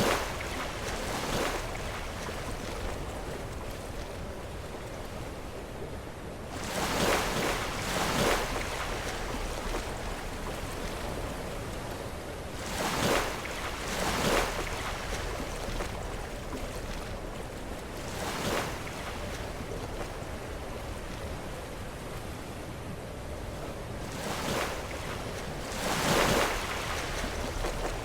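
Sea waves breaking and crashing against rocks, over a steady wash of surf. Louder crashes come every few seconds, often in close pairs, with the biggest near the end.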